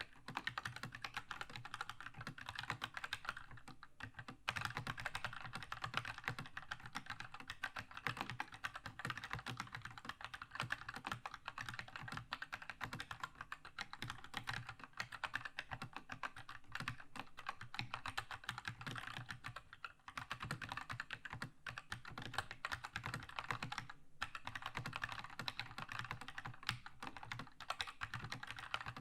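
Continuous fast typing on a Keychron K2 mechanical keyboard with linear red switches: a dense patter of key clacks, with short pauses about four seconds in, around twenty seconds and around twenty-four seconds.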